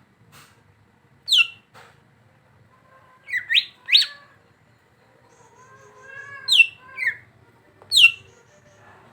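Green leafbird (cucak ijo) calling: several loud, sharp notes that sweep down in pitch, some in quick pairs, with softer warbled notes in between.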